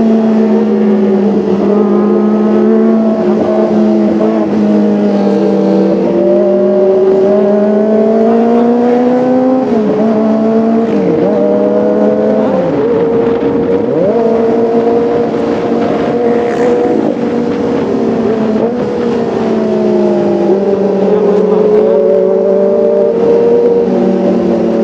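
Kawasaki ZX-25R's 250 cc inline-four engine running at high, fairly steady revs. Its pitch rises and falls gradually, with a few quick dips and recoveries about ten to thirteen seconds in.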